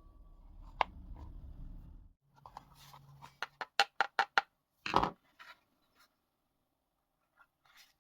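A quick run of about six sharp clicks, then a louder knock about a second later, as small hard objects are handled during a plastic repair.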